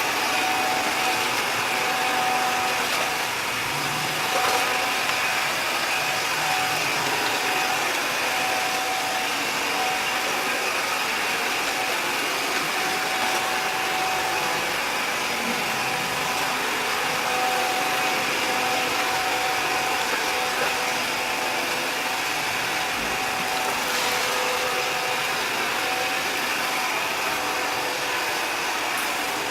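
Robot vacuum cleaners running steadily, a constant whirring hum with a thin high whine, and a few faint clicks.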